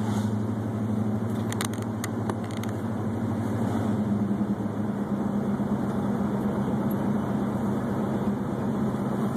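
Car engine and road noise heard from inside the cabin while driving: a steady low drone, with a few short knocks about two seconds in.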